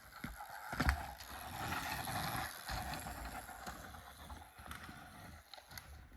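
A chainless mini bike rolling fast over a dirt track, the frame rattling, with a sharp knock about a second in.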